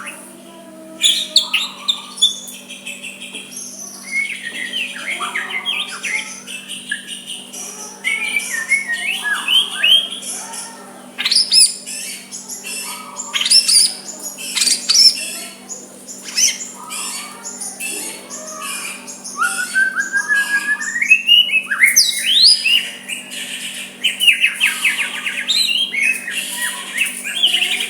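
White-rumped shama singing a long, varied song of clear whistles, quick rising and falling notes and rapid chattering runs.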